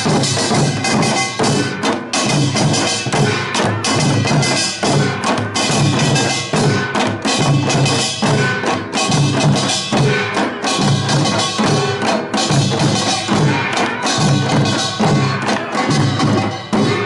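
Pungmul band playing Korean folk percussion: small hand gongs clanging over drums in a steady driving rhythm, with no pause.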